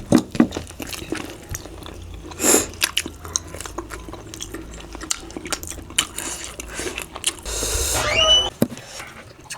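Close-up mouth sounds of someone chewing and eating bhakka, with scattered small clicks. About eight seconds in there is a louder rushing sound with a short pitch glide.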